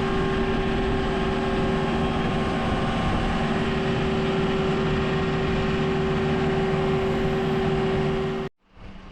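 Diesel engine running steadily with a constant hum, cut off abruptly about eight and a half seconds in.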